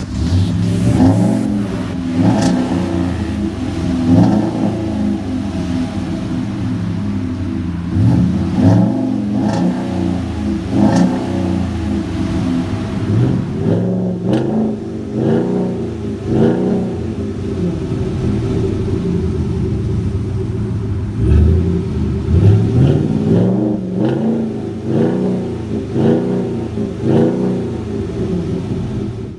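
2018 Ford F-250 Super Duty's 6.2-litre V8 through a custom Flowmaster true dual exhaust, idling with repeated short throttle blips. Each rev rises and falls in pitch, with a steady idle in between.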